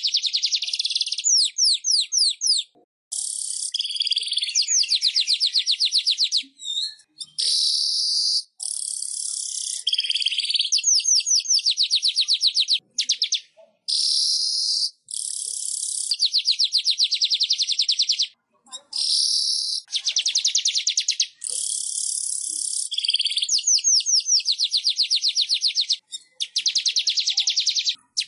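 Weaver (manyar) song: high-pitched trill phrases made of rapid, even pulses, each lasting one to two seconds, repeated again and again with short breaks between them.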